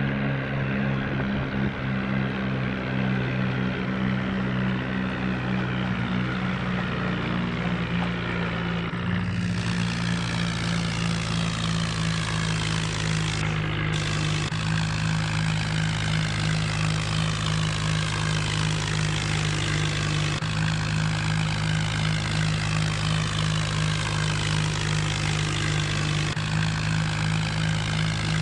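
An HMT tractor's diesel engine running at a steady speed, its low note shifting slightly at a few abrupt breaks.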